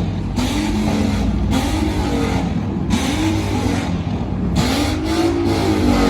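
Car engine revved over and over, its pitch rising and falling about once a second, over steady traffic noise.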